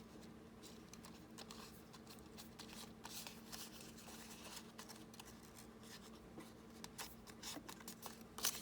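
Faint rustling and light taps of paper and washi tape being handled and folded on a tabletop, over a steady low hum, with a couple of sharper ticks near the end.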